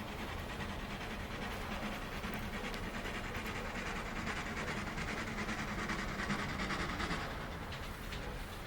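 A train running past, a steady rumble with a low hum, its noise swelling over several seconds and easing off near the end.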